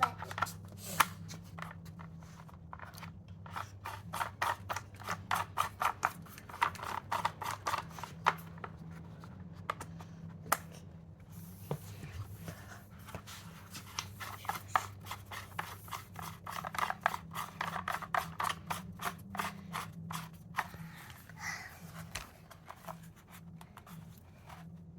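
Quick runs of small sharp clicks and scraping, coming in bursts, over a faint steady hum.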